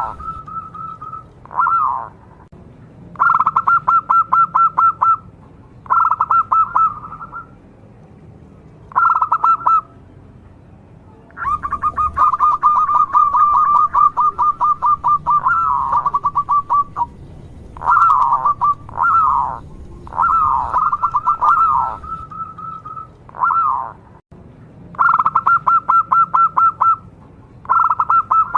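Zebra dove (perkutut) cooing in repeated phrases of rapid, trilled staccato notes, each about one to two seconds long with short pauses, and one longer run of about five seconds in the middle.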